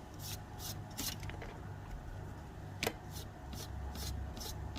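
Fingertip lightly rubbing dry weathering pigment across the raised ribbing of a plastic scale aircraft model: a run of short, soft scratchy strokes, about two or three a second, with one sharp click about three seconds in.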